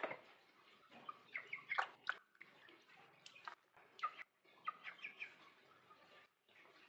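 Bird calling in short, irregular chirps and clicks.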